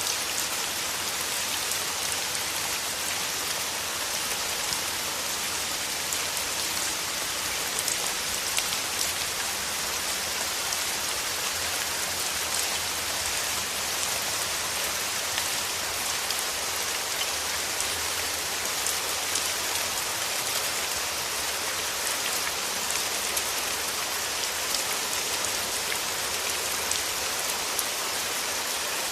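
Steady rain falling through forest trees, a constant hiss of drops with many small pattering drop ticks on leaves.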